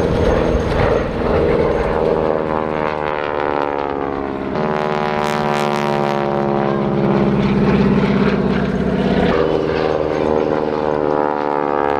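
A propeller aircraft's engine droning steadily, its pitch sliding slowly down as it flies past. The sound changes abruptly about four and a half and nine and a half seconds in.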